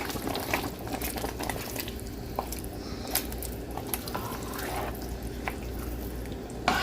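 A pot of soup cooking on the stove: wet bubbling and dripping liquid sounds with scattered small clicks.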